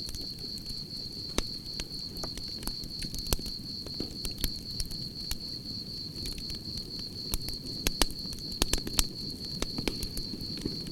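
Campfire crackling, with sharp pops scattered irregularly through it (a cluster of the loudest around two-thirds in) over a low rustle of the flames. A steady high-pitched cricket trill runs underneath.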